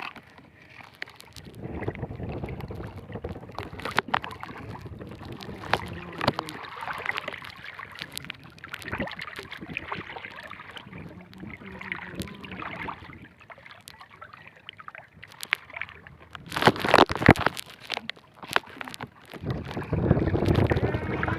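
Strong wind buffeting the microphone around a small fishing boat, with water sloshing and scattered knocks from the boat. A loud burst comes about two-thirds of the way through, and heavier wind rushes in near the end.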